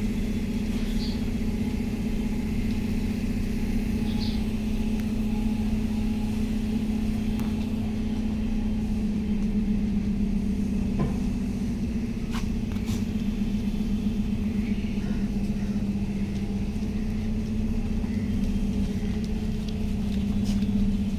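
Steady low mechanical hum with a rumble underneath, like a running motor.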